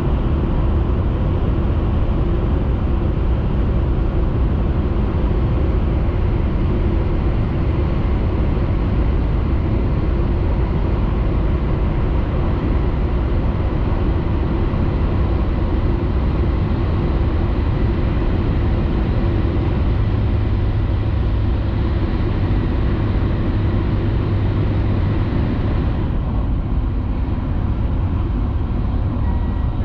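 Tohoku Shinkansen train running at speed, heard inside the passenger cabin: a loud, steady rumble and rushing noise. A few seconds before the end the higher hiss drops away while the low rumble carries on.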